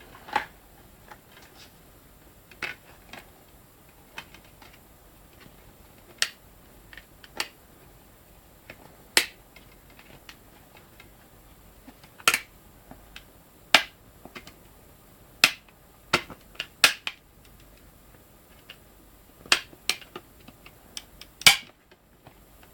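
Irregular sharp clicks and taps from handling a DVD box set and its disc cases and packaging.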